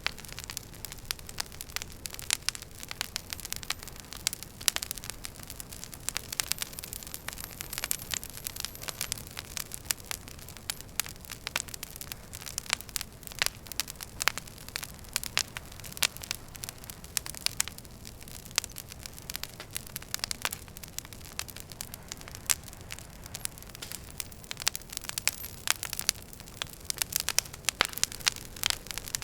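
Wood fire burning in a fireplace, crackling with frequent irregular sharp pops over a steady soft hiss.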